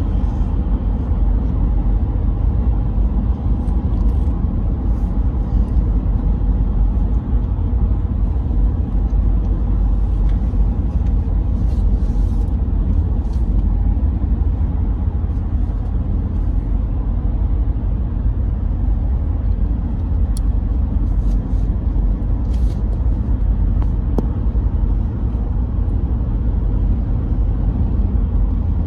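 Steady low rumble of a moving car, with a few faint ticks over it.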